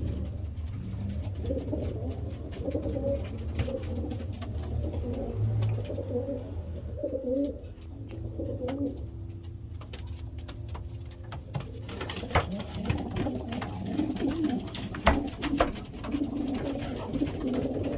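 Racing pigeons cooing in a loft, low warbling calls overlapping one another, with scattered sharp clicks and taps in the second half.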